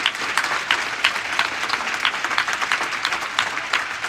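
Crowd in a hall applauding, many hands clapping at once.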